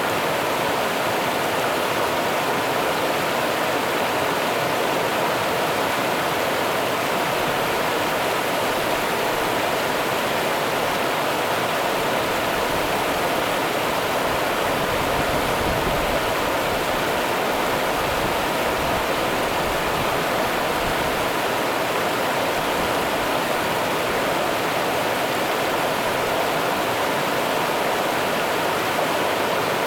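Steady rushing of the Rio Grande's running water, an even, unbroken wash of noise.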